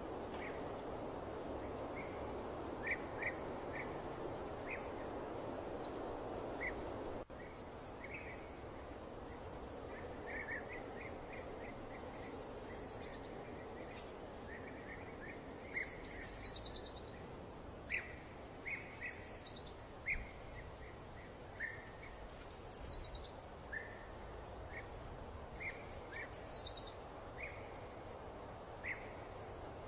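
Birds singing: short chirps, and one call that repeats every few seconds, each time sliding down in pitch. A steady rushing noise underneath cuts off abruptly about a quarter of the way in.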